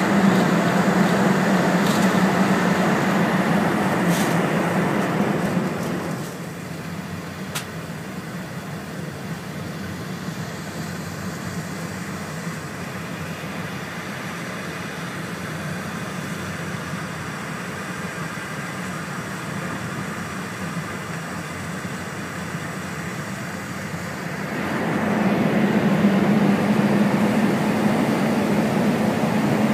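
Cabin noise of an E4 series double-decker Shinkansen running at speed: a steady rumble with a low hum. It falls quieter about six seconds in as the train leaves a tunnel, and rises again near the end as it enters another.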